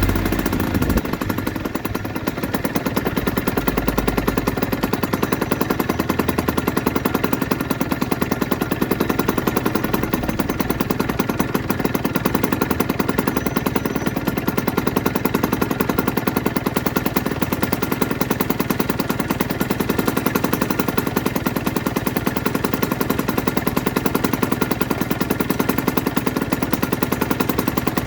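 2008 Aprilia RS125's single-cylinder two-stroke engine idling, with a fast, even run of firing pulses. It drops back from a rev in the first second, then holds a steady idle.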